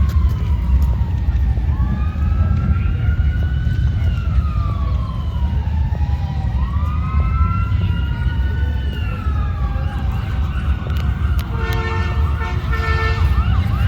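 Sirens wailing, several overlapping and slowly rising and falling in pitch, over a steady low engine rumble. Near the end a short steady horn-like tone sounds while one siren switches to a fast warble.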